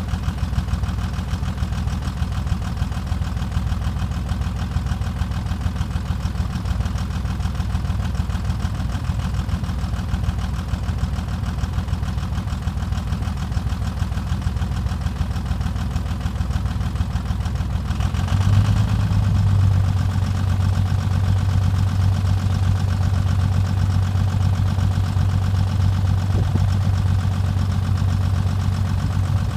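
2001 Dodge Ram's 24-valve 5.9 L Cummins inline-six turbodiesel idling a few minutes after a cold start at −35 °C without the block heater. About two-thirds of the way through, a steady low hum comes in and the engine sound gets a little louder, then holds.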